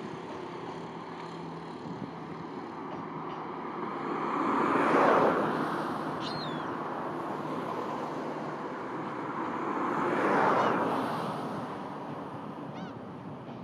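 Diesel railcar running across a steel girder railway bridge: a steady rumble of wheels and engine, with faint low engine hum, swelling loudly about five seconds in and again about ten seconds in.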